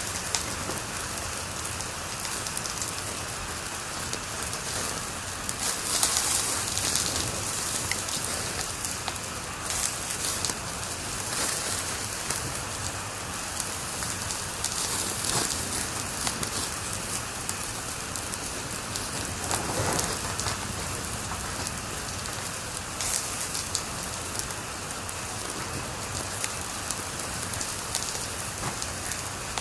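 Wood fire crackling in a fireplace: a steady hiss with frequent sharp pops and crackles, a denser run of pops about six seconds in.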